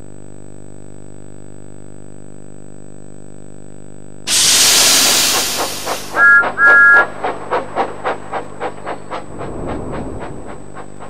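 A steady low hum, then about four seconds in a loud burst of escaping steam, two short toots of a two-note steam whistle, and a steam locomotive's chuffs, about three a second, fading away.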